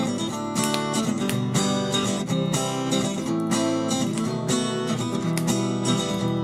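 Acoustic guitar strummed in a steady rhythm, playing the chord introduction to a song before the singing comes in.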